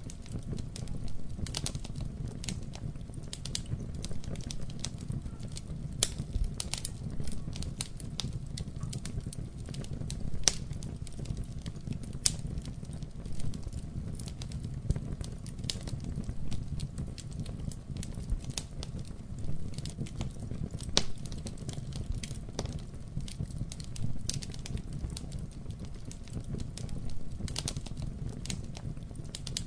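Wood fire crackling in a fireplace: irregular sharp pops and snaps over a steady low rumble of the flames, with one louder pop about ten seconds in.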